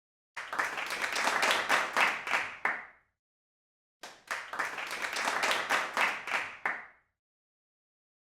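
Two bursts of clapping and applause, each about three seconds long, separated by about a second of silence.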